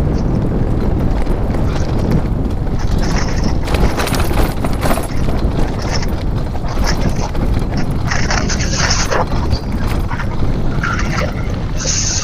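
Wind buffeting the microphone of a moving e-bike, a dense steady rumble, with short bursts of higher hiss now and then.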